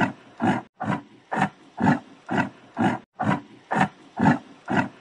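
Yak grunting in a rapid, even series, about two short grunts a second.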